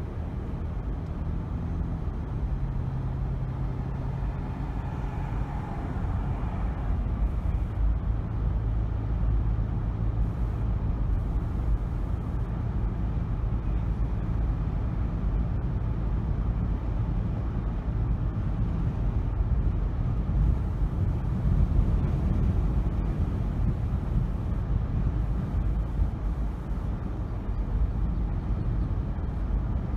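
A car driving through city streets: a steady low rumble of road and engine noise, with a faint low hum over the first several seconds.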